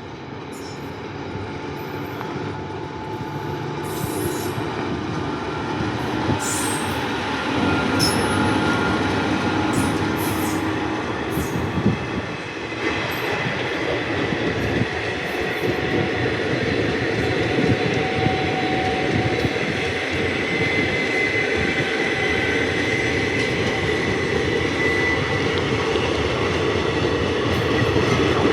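A train running past close by: a continuous rumble of wheels on the rails, with a thin steady squeal from the wheels. It grows louder over the first several seconds.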